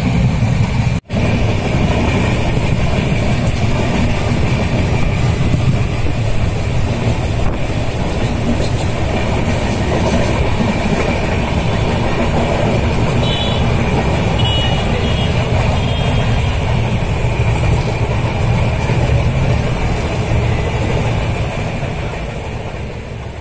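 Steady running noise of a moving passenger train, heard from inside the carriage at an open window: wheels on the rails and rushing air. The sound cuts out for an instant about a second in and fades away near the end.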